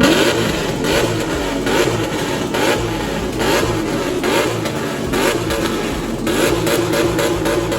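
Loud-exhaust car or truck engine being revved, its pitch climbing and dropping again and again.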